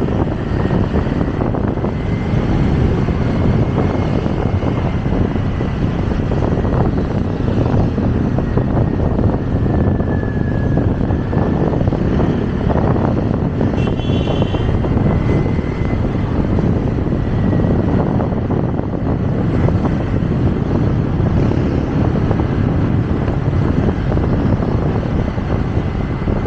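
Steady rush of wind and road noise from a moving motorcycle, with the engine running under it and a faint steady whine. A brief high chirp sounds about halfway through.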